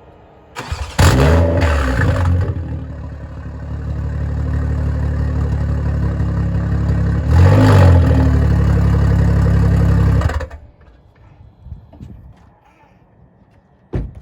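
BMW M340i's B58 turbocharged inline-six started with its exhaust system removed, running open-piped: it catches with a brief flare about a second in, idles, rises and falls once in a short blip past the middle, then shuts off abruptly. Loud and raw, described as sounding awful.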